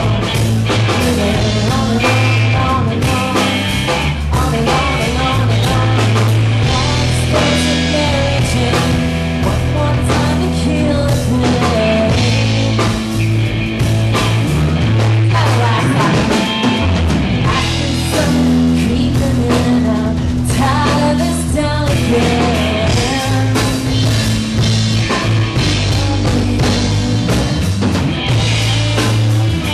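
Live rock band playing: drum kit, electric guitars and bass, with some singing.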